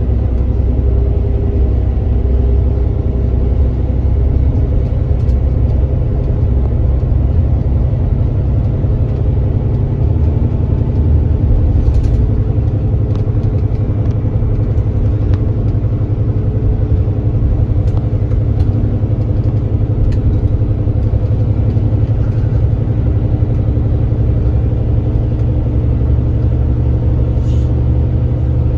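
Kia Granbird Sunshine coach's diesel engine running steadily under way, with a deep rumble and road noise. A few faint clicks come through.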